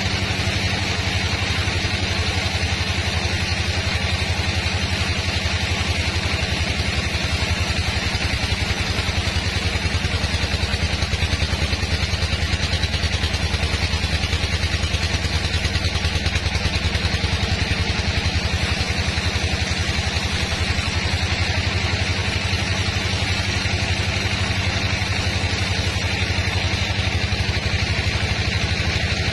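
Engine-driven sawmill machinery running steadily, a continuous engine drone with a steady hiss above it and no change in pitch.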